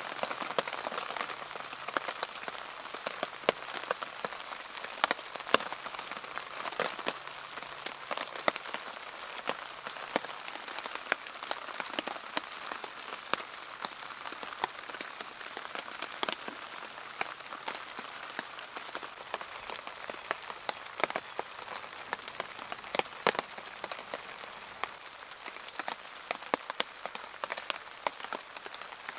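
Rain falling on a tarp shelter overhead: a steady patter with many louder individual drops striking at irregular moments.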